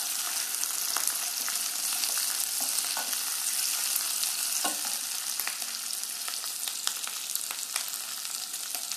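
Onion and green capsicum pieces sizzling in hot oil in a nonstick pan while being stirred with a plastic spatula, the steady hiss broken by scattered light scrapes and taps of the spatula against the pan.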